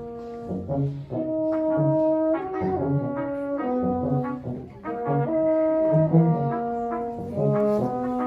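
Brass quartet playing an instrumental passage: held chords that change every second or so over short, repeated low notes.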